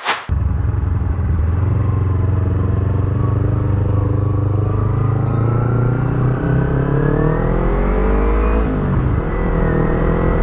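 Sport motorcycle engine heard from the rider's seat, pulling under acceleration: its pitch climbs steadily, drops sharply with an upshift about nine seconds in, then climbs again. A sharp click right at the start.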